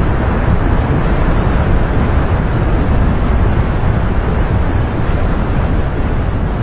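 Loud, steady rush of gushing water, heaviest in the deep low end, with no breaks or separate strokes.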